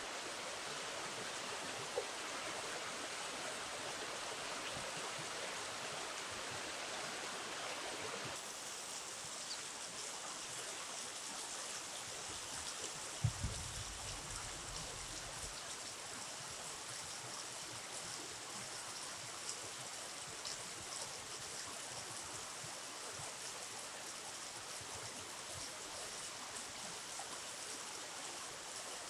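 River water flowing steadily, with a change in its tone about eight seconds in. A low thump comes about thirteen seconds in.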